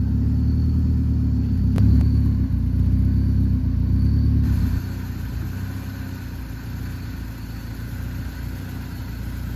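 Car engine running steadily with a low rumble, dropping to a quieter level about halfway through.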